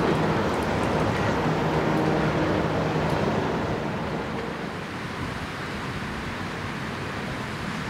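Diesel passenger train passing and moving away: the running of its EMD diesel locomotives and its wheels fades over the first four seconds or so, leaving a steady rushing noise.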